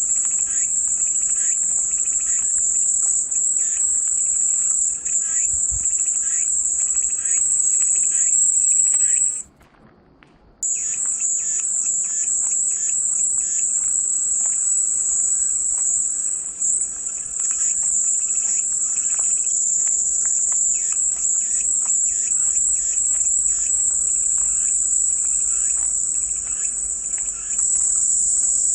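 Chorus of cicadas giving a steady high-pitched buzz, with fainter quick chirps beneath it. The buzz cuts out for about a second, about nine seconds in, then resumes.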